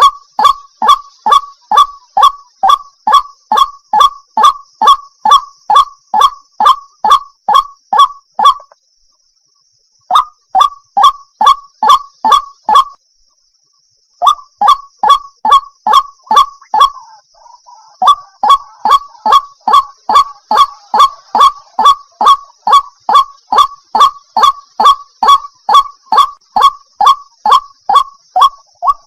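Water hen calling: a rapid series of short, loud, identical clucking notes, about three a second, broken by two brief pauses.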